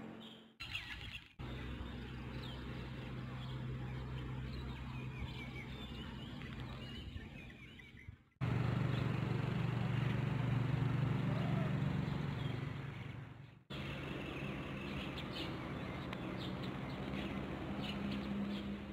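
Birds chirping over a steady low hum, broken by a few abrupt cuts.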